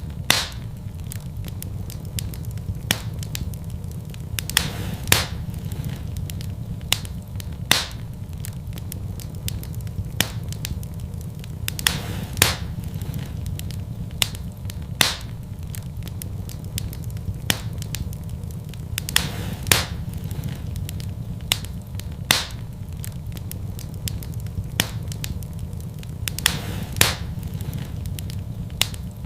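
Fire in a fireplace crackling, with sharp pops every second or two over a steady low rumble.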